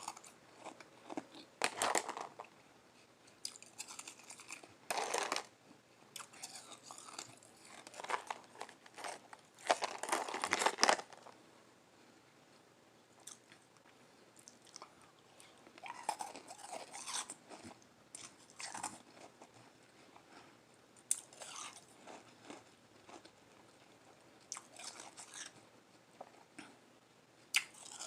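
Close-up sound of someone biting and chewing soft flavored shaved ice: irregular crunches, the loudest about 2, 5 and 10 seconds in, with quieter chewing between.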